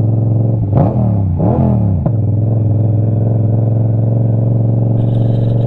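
Yamaha R7's parallel-twin engine through an aftermarket iStunt exhaust: two quick revs that rise and fall in pitch in the first two seconds, then a steady engine note.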